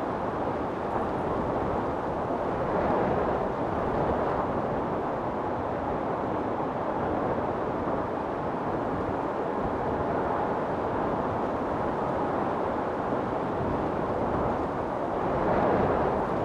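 Wind storm blowing hard and steadily, swelling in gusts around three seconds in and again near the end.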